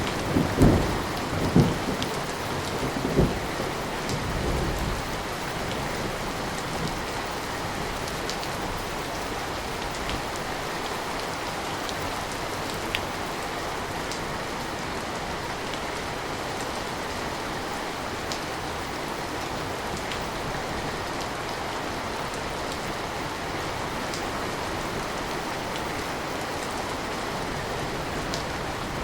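Steady rain, with several loud, low thunder rumbles in the first five seconds. After that the rain runs on evenly, with occasional light drip ticks.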